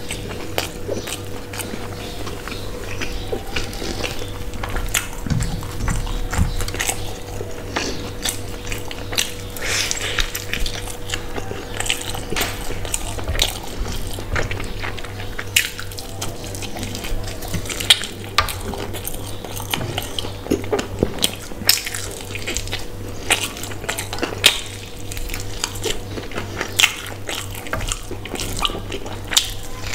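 Close-miked wet chewing, smacking and biting of fried chicken with melted cheese and a burger, full of small sharp clicks and crackles, over a steady low hum.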